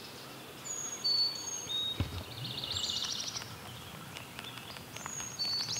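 A songbird singing: clear, high whistled notes followed by a rapid trill, twice. A single soft knock about two seconds in.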